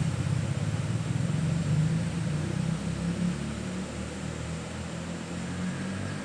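A motor vehicle's engine running with a low hum that slowly fades, as if passing and moving away, over a steady hiss.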